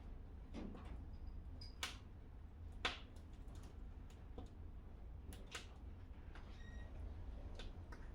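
Wood fire crackling in a fireplace: irregular sharp pops and snaps, the loudest about three seconds in, over a low steady rumble of the flames.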